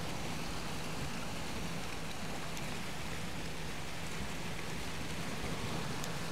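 Steady, even rushing noise of water, with no distinct events in it.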